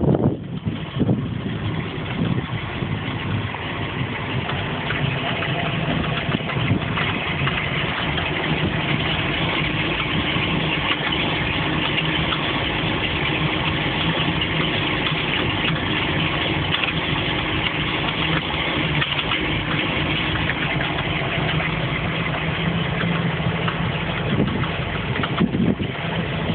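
MerCruiser 7.4 L V8 marine engine running steadily at idle, carrying a strange noise of unknown cause that the owner says is there even with the gear engaged.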